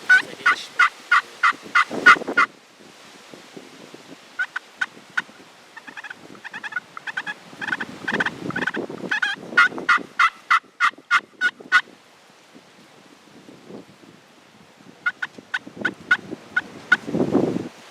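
Turkey yelping: several runs of sharp, evenly spaced yelps, about five a second, with wind rumbling on the microphone between some of the runs.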